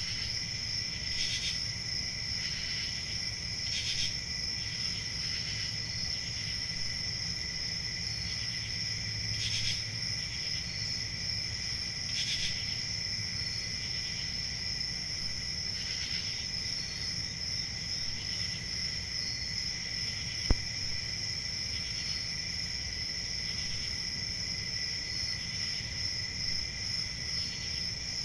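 Crickets chirping in a steady night chorus: a continuous high trill with a fainter, lower trill beneath it and short chirps repeating about once a second. A single sharp click about twenty seconds in.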